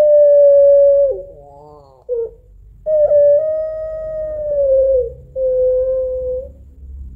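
Female Barbary dove of the 'puter pelung' long-voiced type giving long, drawn-out, wailing calls: steady notes each held one to two seconds, the middle one sinking at its end, broken by a short wavering note about a second in. It is a female calling for a male.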